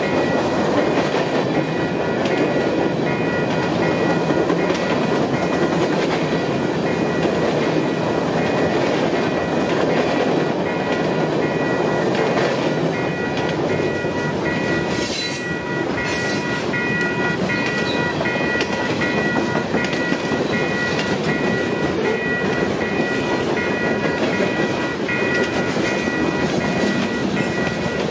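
Freight cars rolling through a grade crossing: a steady rumble with the clickety-clack of wheels over rail joints. The crossing signal's bell rings over it in an even repeating pattern, and a brief hiss comes about halfway through.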